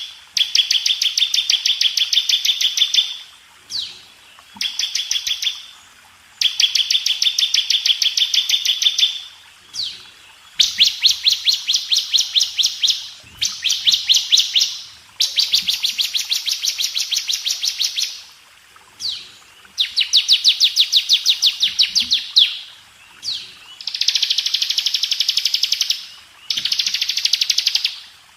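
Bar-winged prinia (ciblek) singing its rapid 'ngebren' trill: high runs of very fast repeated notes, each one to three seconds long, with short pauses between.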